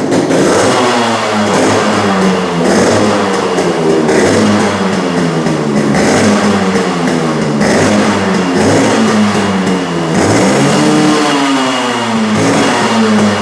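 Restored Yamaha RX135 two-stroke single-cylinder motorcycle engine running just after start-up and being revved up and down repeatedly by hand, with a deeper dip and climb about ten seconds in.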